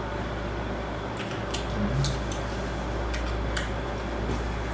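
Steady low room hum with a few faint, short clicks scattered through it.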